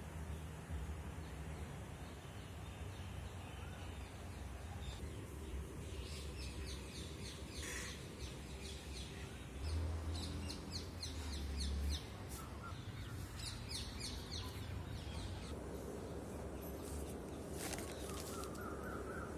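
Faint birds chirping in short runs over a low steady hum, with a brief rising series of calls near the end.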